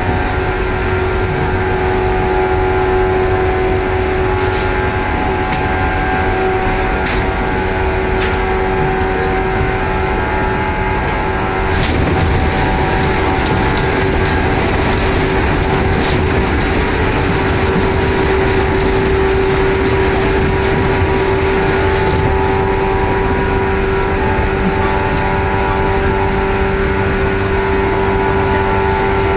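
Train running, heard from inside the carriage: a steady rumble with a constant hum and a few faint clicks.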